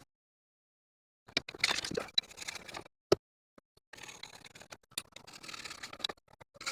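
Old weather stripping being scraped and pulled off a camper compartment door: irregular rubbing and scraping starting about a second in, a single sharp click near the middle, then fainter scraping.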